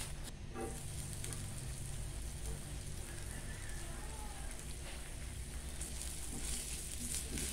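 Minced ginger frying in hot oil in a pan: a steady sizzle with small crackles. It gets louder near the end as the ginger is stirred in.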